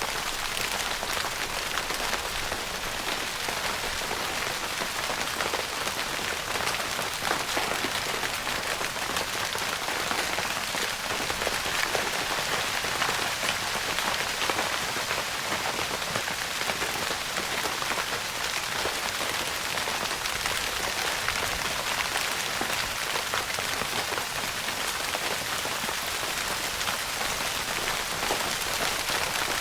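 Steady rain pattering on a tent's fabric roof, a dense even hiss of many small drop taps.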